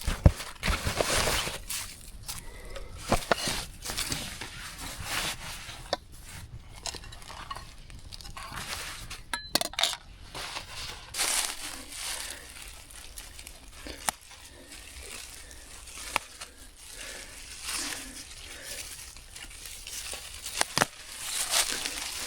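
Camp gear being handled: rustling and crinkling with scattered light clinks and clicks of cookware, in short irregular bursts.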